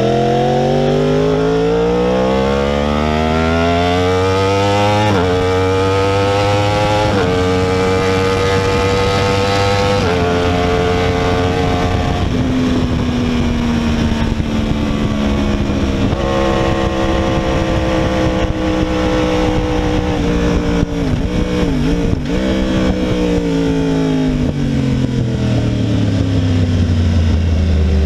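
2016 Yamaha R1's crossplane inline-four with a cat-delete exhaust, at full throttle on track: the pitch rises and drops back at about four upshifts in the first twelve seconds. It then falls away as the bike slows and downshifts, with a few quick blips, before rising again under throttle near the end.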